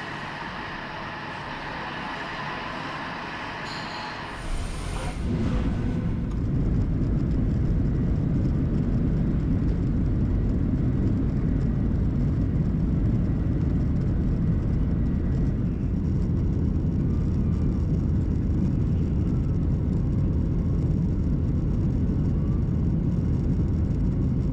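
Passenger plane cabin noise: a steady hiss with a faint whine, which about four and a half seconds in gives way to a much louder, deep, steady rumble.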